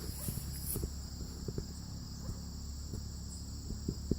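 Steady high-pitched insect chorus, typical of crickets, with a few soft low knocks scattered through it.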